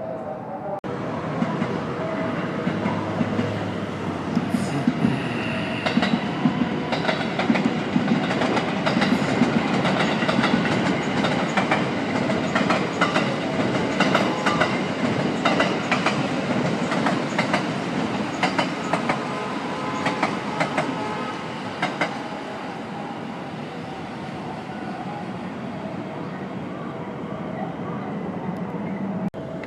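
A train running past on the tracks, its wheels clicking rapidly over rail joints, then settling to a steadier, quieter rumble for the last several seconds.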